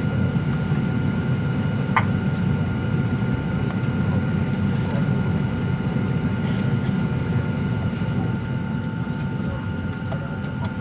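Steady cabin noise of a Boeing 737-900ER on the ground: a low rumble with several steady whining tones from the engines and air systems, and one short click about two seconds in.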